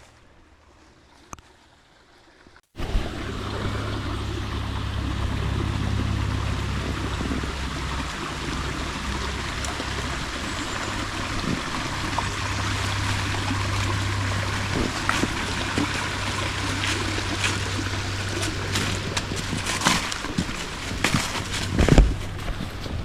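Stream water rushing and splashing steadily, starting abruptly about three seconds in, with a few sharp knocks near the end.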